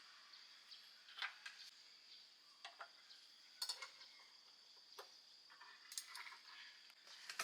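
Faint, irregular clicks and light clinks, about ten spread over several seconds, over a faint steady high hiss.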